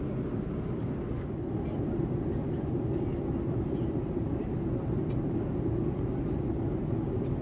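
Steady low rumble of cabin noise inside a Boeing 787-9 airliner in flight, the constant engine and airflow sound heard from a passenger seat.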